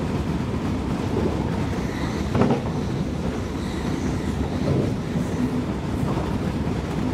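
Inside a Class 323 electric multiple unit running at speed: a steady rumble of wheels on rail, with one sharp clack about two and a half seconds in.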